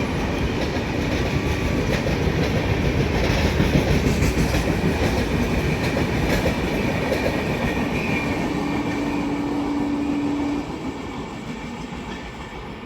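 Passenger express coaches rushing past on the rails, wheels clattering over rail joints. A brief steady tone sounds about eight seconds in, and near the end the noise falls away as the train moves off.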